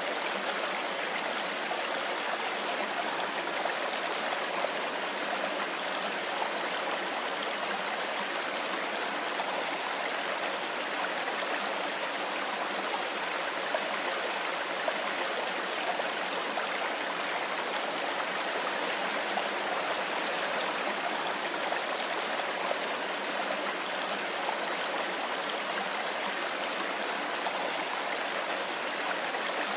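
Mountain river rushing steadily over stones, an even, unbroken water noise.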